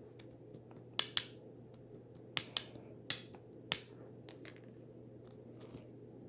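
A series of sharp, crisp clicks, about a dozen, several coming in quick pairs, over a steady low hum.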